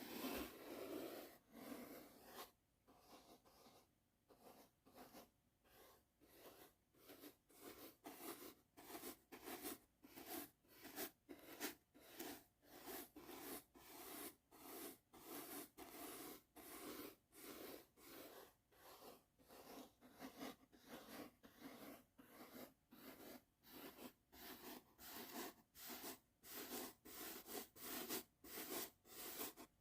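A soft brush stroked over and over across the microphone: light swishing strokes in an even rhythm of about two a second.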